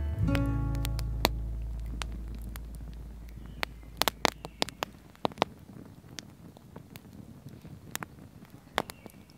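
A guitar note rings and fades over the first few seconds, then a wood campfire crackles with scattered sharp pops.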